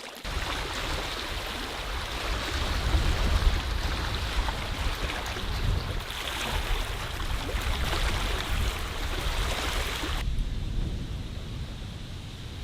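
Wind buffeting the microphone over waves on open lake water, a steady low rumble under a rushing hiss. About ten seconds in the hiss cuts off suddenly, leaving mostly the low wind rumble.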